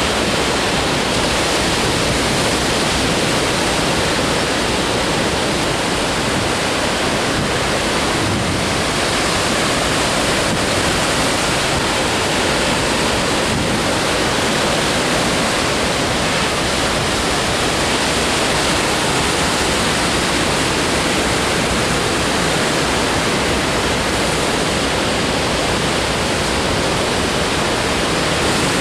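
Ocean surf, a steady, even roar of breaking waves with no distinct single crashes.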